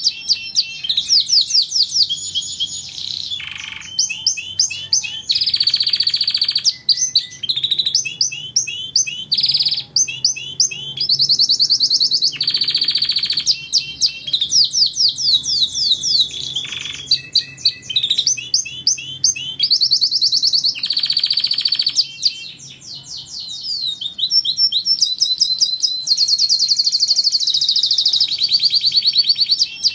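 Domestic canary singing a long, continuous song of rapid trills and fast-repeated high notes, switching often between phrases with only brief gaps.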